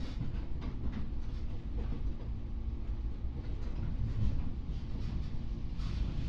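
Inside a JR 415 series electric multiple unit running on the line: a steady low rumble of wheels on rail and running gear, heard from the passenger cabin, with a few faint knocks.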